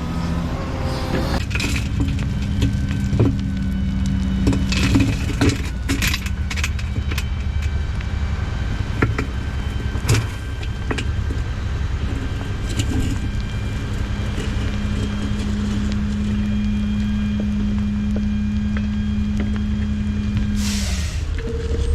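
Dump truck's diesel engine idling with a steady drone, with scattered clanks and knocks and a short burst of air hiss near the end.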